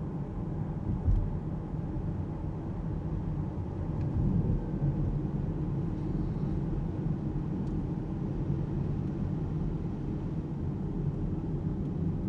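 Road and tyre noise from a fully electric Alpine A390 driving through town: a steady low rumble with no engine note, and a single thump about a second in.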